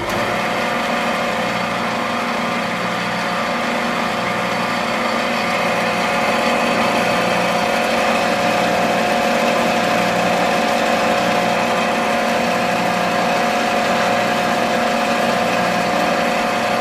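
A small motor running steadily at one constant speed.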